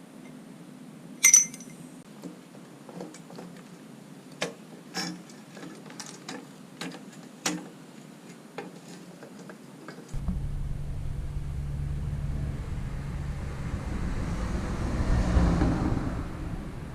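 Metal tools and parts clinking and being set down, with one sharp ringing clink about a second in. About ten seconds in, a steady low rumble starts abruptly and swells near the end.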